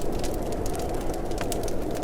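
Wood fire burning in a fireplace: a steady low rush of flames with many sharp crackles and pops from the logs.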